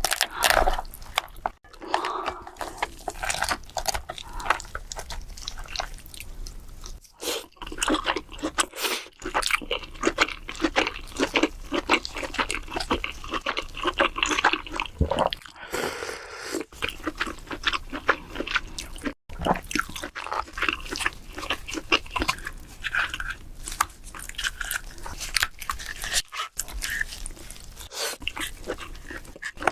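Close-miked eating of king crab: chewing and crunching, a dense run of short mouth clicks and crackles, broken by a few brief gaps.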